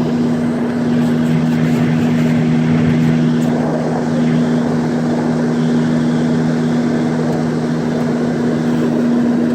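Old Sharp Comfort Touch window air conditioner running: a steady rush of its fan with a strong, steady low hum.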